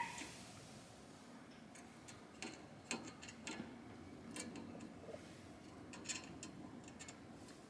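Scattered light clicks and taps at irregular intervals, the small sounds of hand work on a car's suspension.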